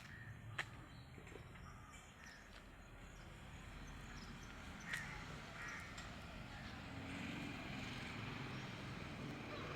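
Birds calling outdoors, faint and scattered, busier in the second half, with two sharp clicks, one early and one about halfway through.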